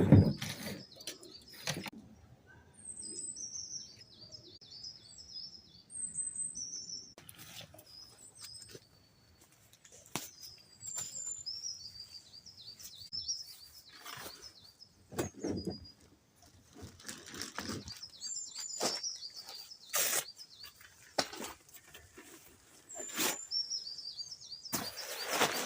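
Small wild birds singing, with repeated high chirps and quick trills, over scattered short knocks and rustles.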